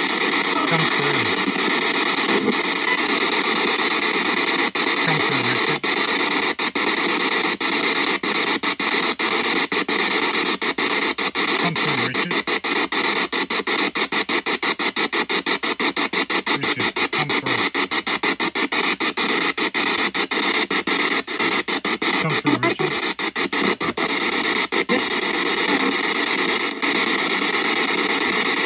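Spirit box scanning through radio bands: loud, steady radio static chopped by quick dropouts several times a second as it sweeps, with a few brief low falling snatches of sound.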